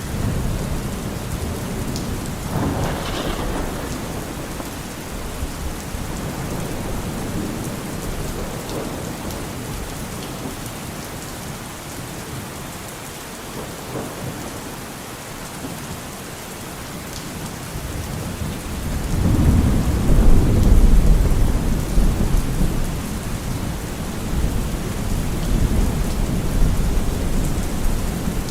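Steady rain falling, with thunder: a sharp crack about three seconds in, then a long, loud, low rumble of thunder rolling in about two-thirds of the way through.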